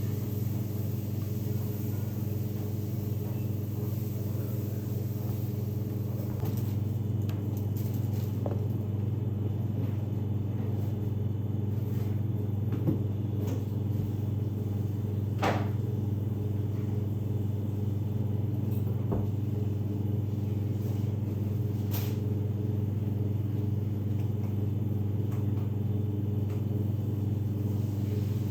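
Steady low machine hum, with a few faint clicks and taps.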